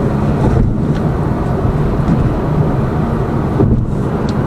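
Cabin noise of a Lada Vesta Cross on the move: steady engine hum and road noise. No suspension knocking can be made out; the suspension runs fairly quietly since its shock absorbers were replaced.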